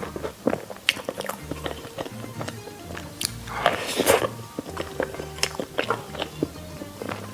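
Close-up eating sounds, bites and chewing with small clicks, over background music with a slow bass line; a louder, noisier bite or slurp comes about halfway through.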